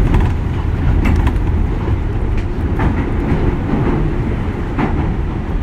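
JR West 201 series electric commuter train running along the line, heard from inside the car: a steady low rumble, with the clack of the wheels over rail joints coming irregularly several times.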